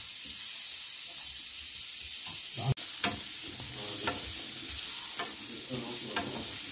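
Diced onion and small pieces of meat sizzling in oil in a nonstick frying pan, with a wooden spatula stirring and scraping across the pan bottom several times.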